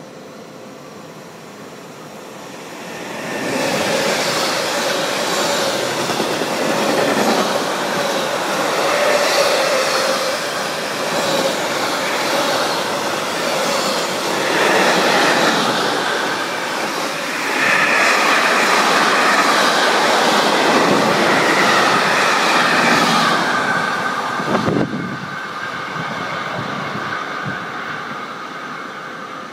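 Electric-hauled intermodal freight train of container and swap-body wagons passing close by on the adjacent track. It swells up about three seconds in and rattles and clatters over the rails, with a high wheel squeal in its later part. The sound cuts off sharply as the last wagon clears, about 25 seconds in.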